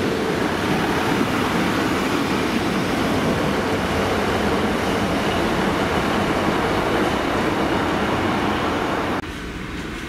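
A diesel multiple unit pulling out along the platform: a steady, loud rumble of engine and wheels on the rails. The sound cuts off abruptly about nine seconds in, leaving a quieter station background.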